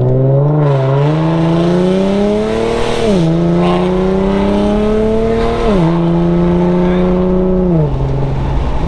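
Infiniti G37x's 3.7-litre V6 running through a muffler- and resonator-delete exhaust under hard acceleration. The exhaust note climbs with the revs, then drops sharply three times, about three, six and eight seconds in, as the car shifts up a gear.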